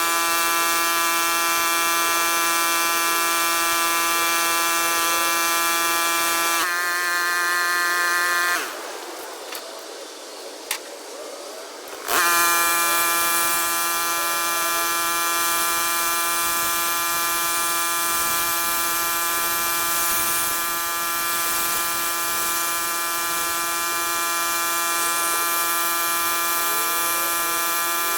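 Pressure washer running with a steady, high-pitched whine. About nine seconds in it cuts out for roughly three seconds, with a single click in the gap, then starts again abruptly and runs on.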